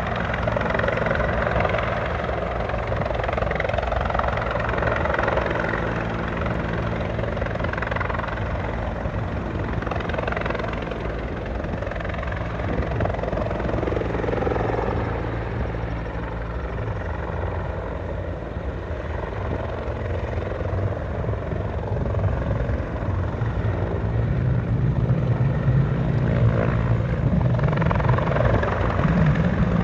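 Rescue helicopter running steadily overhead, its rotor and turbine giving a continuous drone that gets somewhat louder near the end.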